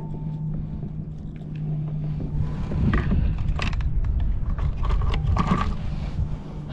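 A low, steady rumble with a faint hum, and a few sharp knocks about halfway through.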